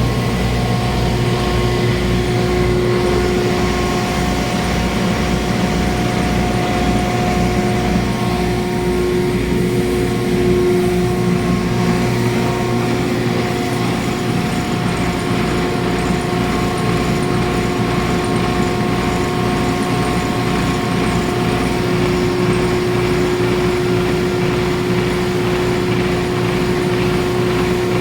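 Red chilli powder grinding machine (pulverizer with automatic suction) running steadily: a constant mechanical hum with a steady whine over it.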